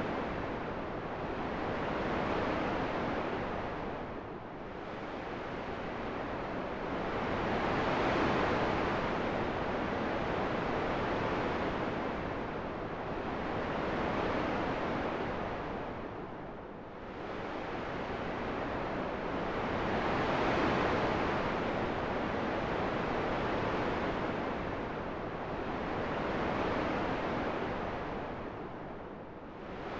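Steady rushing wind that swells and eases in slow waves, dipping three times about twelve seconds apart.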